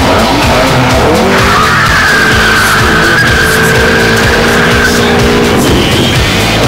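Car tyres squealing in a long skid, a steady high squeal starting about a second in and fading near the end, over a hard-running car engine.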